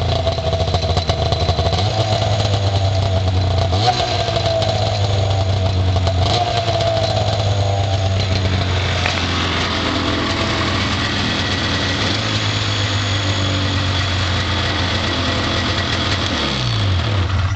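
1992 Polaris Indy 500 snowmobile's two-stroke twin engine idling steadily after a cold start. Near the end it is shut off and runs down to a stop.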